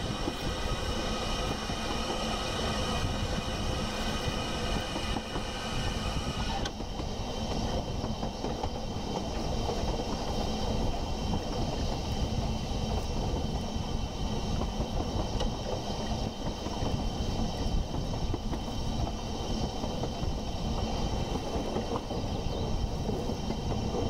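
A train running: a dense low rumble of wheels on rails with several steady high tones above it. Some of the high tones cut out abruptly about seven seconds in.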